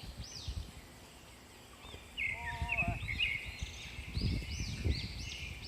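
Birds calling outdoors: quick arched chirps over and over, and a lower stepped call that comes back about every three and a half seconds. Beneath them, irregular low thumps and rustling.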